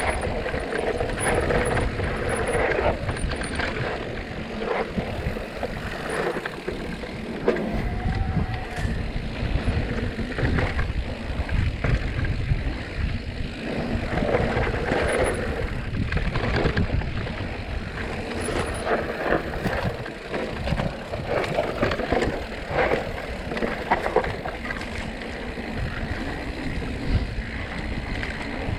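Mountain bike riding a rough dirt trail: a continuous rumble of tyres over dirt and rock with frequent clicks and rattles from the bike.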